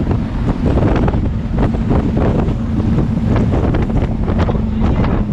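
Heavy wind buffeting the microphone aboard a jet boat running at speed, with the steady drone of its twin Chevy big-block V8 engines underneath.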